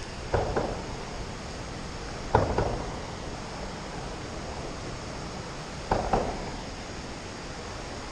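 Steady rush of creek water, with three short double knocks spaced a few seconds apart.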